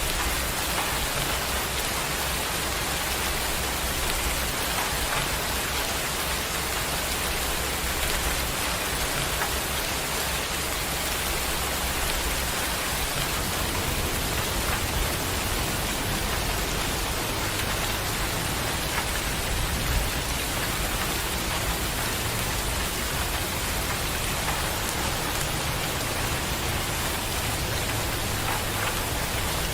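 Steady heavy rain: a dense, even hiss of rain falling, with a low rumble underneath that shifts about halfway through.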